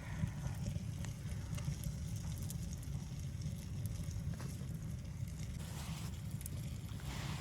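Steady low rumble of wind, with scattered faint crackles and ticks from a wood fire burning.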